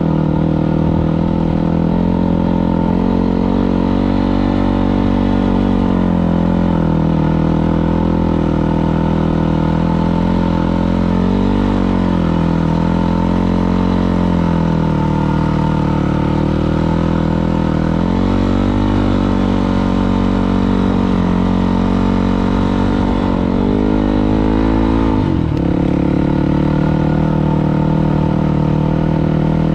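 Dirt bike engine running continuously, its pitch rising and falling several times as the throttle is worked, with a sharp drop in pitch about 25 seconds in.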